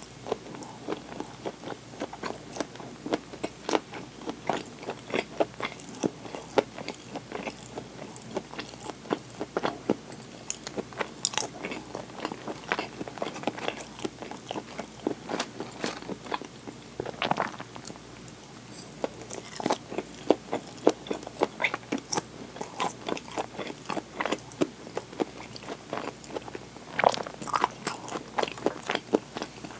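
A person chewing and biting crunchy fried chicken (karaage) close to the microphone, with many small irregular mouth clicks and crunches. Louder crunches come just past halfway and again near the end.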